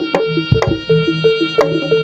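Live Javanese jaranan ensemble music: sharp drum strokes at about four a second over a repeating, stepping melody and a steady held tone.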